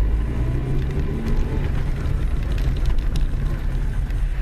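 Steady low rumble of a car engine and road noise heard from inside the cabin through a dashcam, with a few faint ticks.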